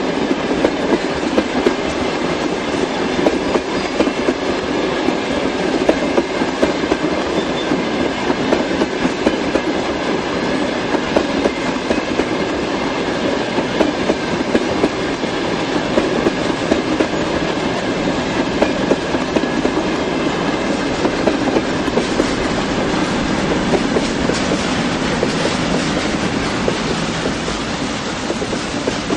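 Freight train of refrigerator cars and tank cars rolling past, its wheels clattering steadily and loudly over the rail joints.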